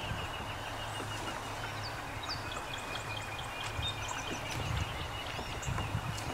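Small birds chirping in short high calls, some rising or falling quickly, over a steady low rumble that buffets a few times in the second half.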